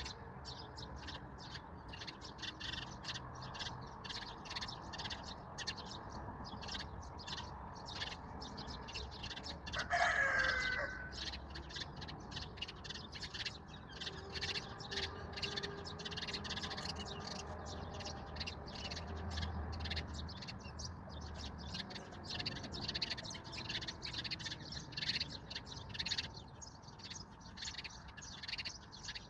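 Many small birds chirping continuously in a dense chorus, with one louder call of about a second from a chicken about ten seconds in.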